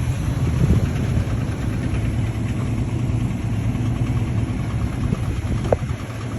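Vehicle engine idling steadily after a jump start, with a brief high squeak near the end.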